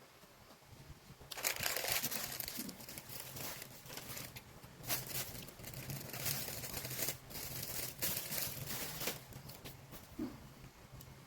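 Crackly crinkling and tearing as bread is handled and torn, in irregular bursts starting about a second and a half in.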